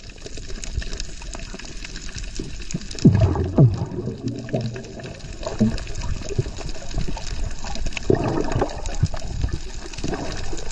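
Water splashing and sloshing, with a few louder dull knocks about three seconds in and again near eight seconds.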